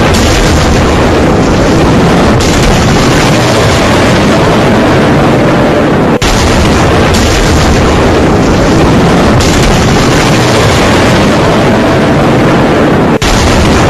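Loud, rushing storm noise from a gale-force thunderstorm wind and heavy rain, buffeting and overloading the microphone. It drops out for an instant about six seconds in and again near the end.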